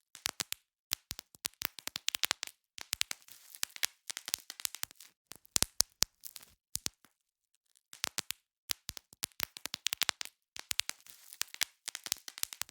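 Bubble wrap being popped: irregular runs of sharp pops and crackles, several in quick succession, with short pauses between runs, including one near the start and one just past the middle.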